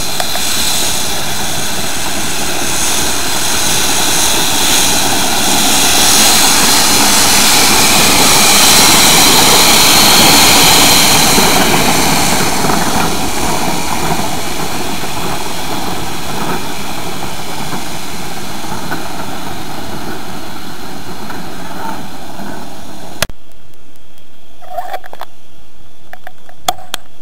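Heisler geared steam locomotive venting steam: a loud, steady hiss that swells for a while, then cuts off abruptly near the end, leaving a few faint clicks.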